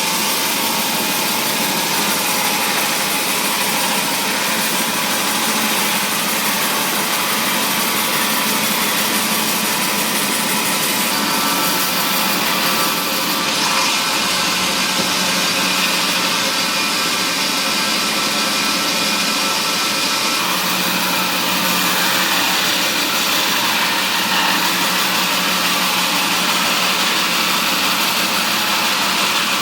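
Wood-processing machinery in a mahogany timber mill running steadily, with a continuous high-pitched mechanical noise.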